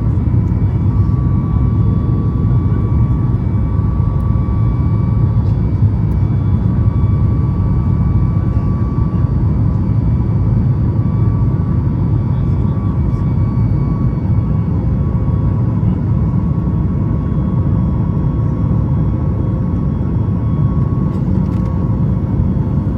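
Steady in-cabin drone of a Boeing 737 MAX 8 in flight: the CFM LEAP-1B jet engines and airflow give a deep, even rumble with a thin steady whine over it.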